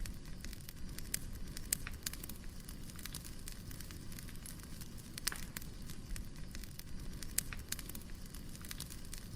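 Wood fire crackling: a steady low rumble of burning logs with sharp, irregular pops and snaps every second or so.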